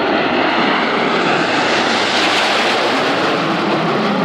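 Jet aircraft passing, a steady roar that swells to a peak about two seconds in.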